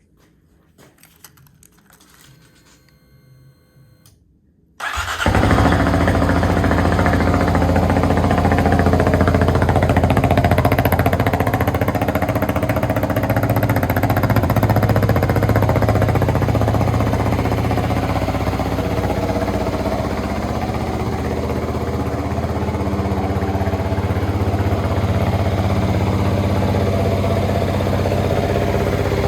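Kawasaki D-Tracker X's 249 cc single-cylinder four-stroke engine, breathing through a DELTA slip-on muffler, starts abruptly about five seconds in and then idles steadily. Before it starts there are only faint clicks.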